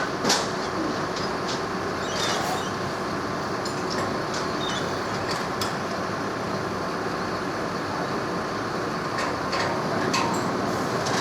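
Sugar cane train running along the rails: a steady noise with scattered sharp clicks and clanks.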